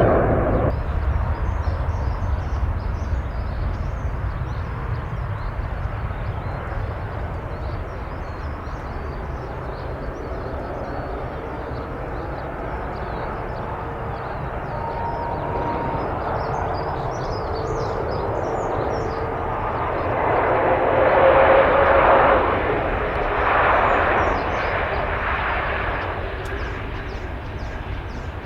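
Jet airliner engines, a steady low rumble with faint whining tones. It eases off over the first several seconds, then swells twice near the end.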